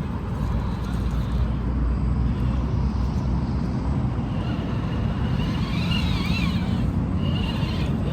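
Radio-controlled crawler's electric motor and gearbox whining as it drives, the pitch wavering up and down in the second half, over a steady low rumble.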